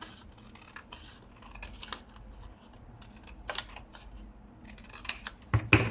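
A sheet of paper being cut in half by hand: faint scraping and small clicks of the cut and the paper, with a few louder knocks near the end as it is handled.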